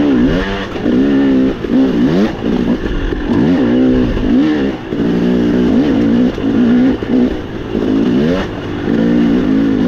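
Dirt bike engine revving up and down again and again as the throttle is opened and closed, its pitch rising and falling every second or so.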